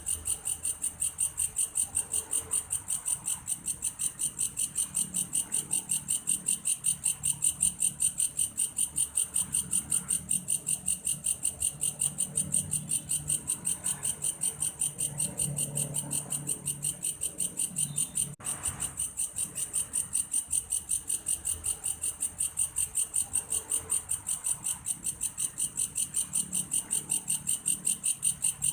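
Belalang kayu grasshopper calling: a steady, high-pitched pulsing song of about three to four pulses a second, with a brief break about eighteen seconds in.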